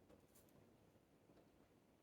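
Near silence: room tone, with one faint brief rustle about half a second in.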